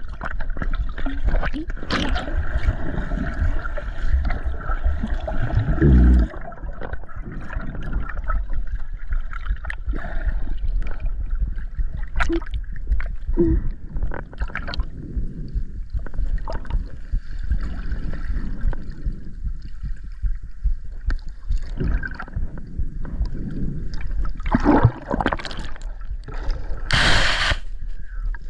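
Muffled underwater sound from a GoPro carried by a swimmer: a low rumble with gurgling water and scattered clicks and knocks. Near the end a short, loud rush of water breaks in for about a second.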